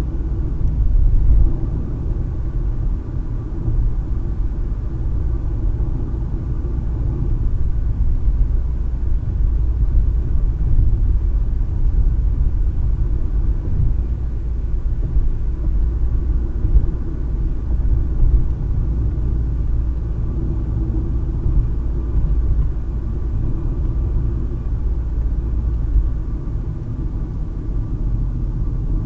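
Steady low rumble of a car driving, tyre and engine noise heard from inside the cabin by a windshield-mounted dash cam.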